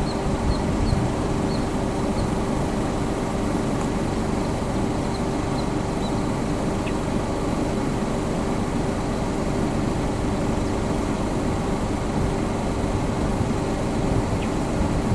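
Steady low rumble with a constant hum, with a few faint, short high peeps during the first several seconds.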